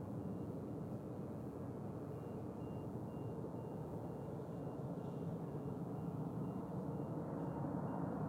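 Steady low rumble of airport noise, growing a little louder towards the end, with a faint vehicle reversing alarm beeping about twice a second from about two seconds in.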